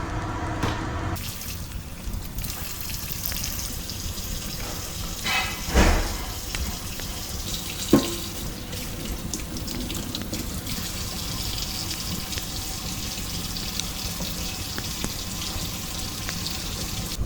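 Water running steadily, with two sharp knocks about six and eight seconds in.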